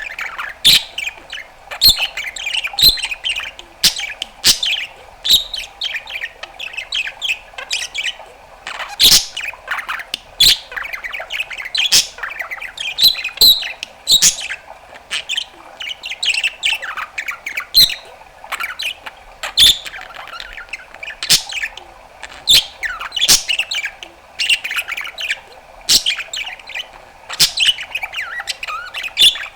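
A budgerigar chattering without pause: fast warbles, chirps and squawks, broken by sharp clicks every second or two.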